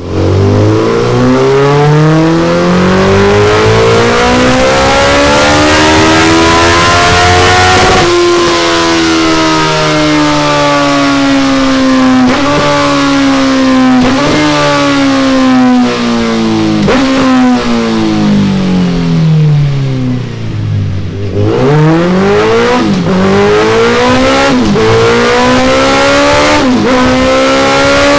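Suzuki Hayabusa inline-four engine breathing through a Delkevic DL10 carbon fibre round exhaust, run under load on a dyno. The revs climb for the first eight seconds, fall steadily for about twelve seconds, then climb again in short steps near the end.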